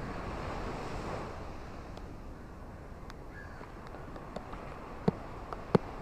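Ocean surf washing on a beach in steady rain, the wash swelling in the first second and then easing. A few sharp ticks, two louder ones near the end, like drops hitting close by.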